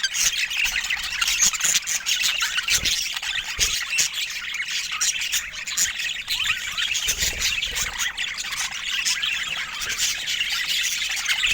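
Budgerigars chattering: a steady stream of quick chirps, warbles and squawks.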